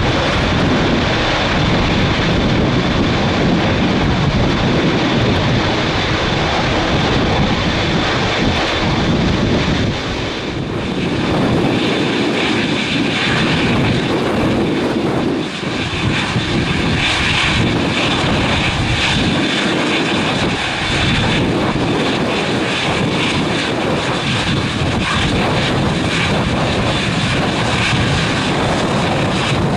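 Airliner's jet engines running: a loud, steady rush with a thin high whine over it, briefly dipping about a third and half of the way through.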